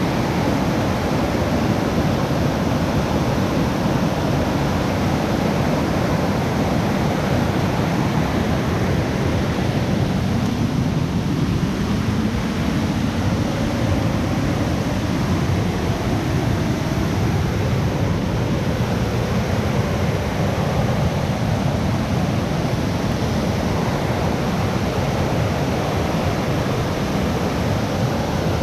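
Rain falling steadily, an even, unbroken hiss with no single drops or other events standing out.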